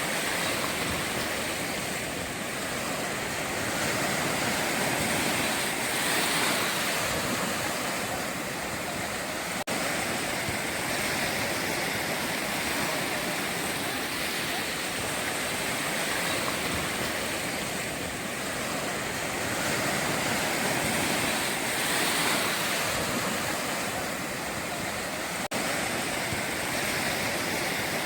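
Ocean surf breaking and washing on the shore: a steady rush of water that swells and eases every few seconds, with two very brief dropouts in the sound.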